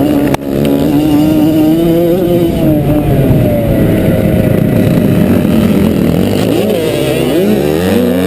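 Motocross bike engine running hard, its pitch sagging slowly through the middle and then climbing quickly as it revs up near the end.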